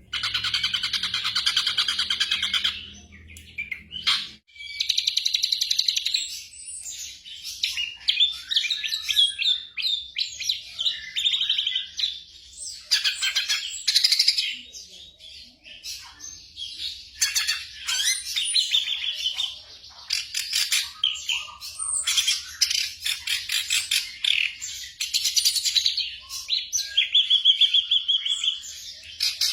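Black drongo singing a varied, nonstop run of sharp chirps, whistles and buzzy trills. It opens with a fast buzzy rattle that lasts about two and a half seconds.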